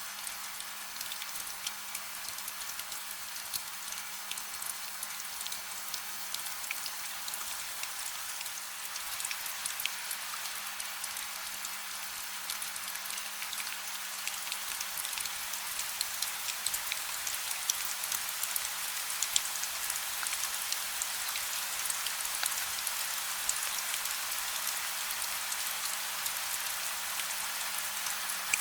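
Steady rain falling, a dense hiss of many small drops with individual taps standing out, growing slightly louder through the second half, with no thunder. A faint steady low hum runs underneath.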